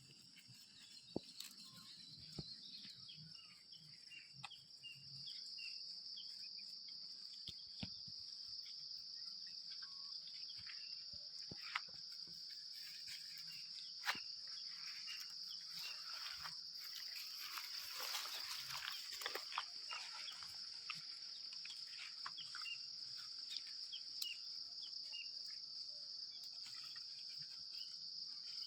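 Insects droning steadily at a high pitch, with scattered faint chirps and clicks.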